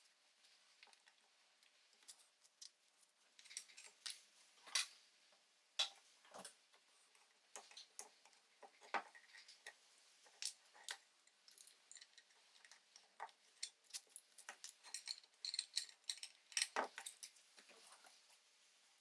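Small metal parts of an old gasoline soldering iron clicking and clinking as they are handled, with irregular light taps and a few sharper knocks.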